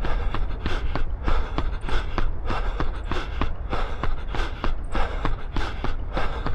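A runner's footfalls, about three a second at a steady cadence, with hard rhythmic breathing from late in a threshold-pace run. A steady low wind rumble on the action camera's microphone runs underneath.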